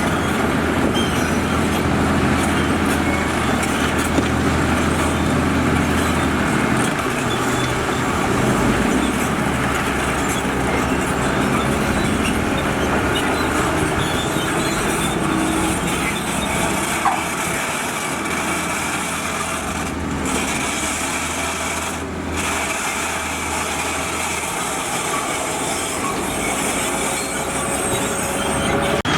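Diesel engines of heavy construction machinery running steadily, with a continuous mechanical clatter. The low engine note changes a few times, around seven seconds in and near 25 seconds.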